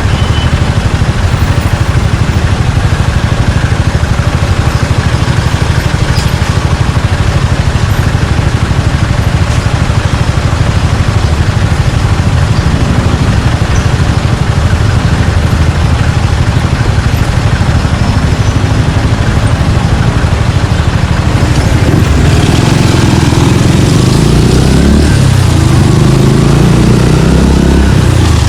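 Suzuki Gixxer 155's single-cylinder engine running at a steady low pitch for most of the stretch, then, about three-quarters of the way in, revving up with a few rising and falling sweeps in pitch as the bike pulls away.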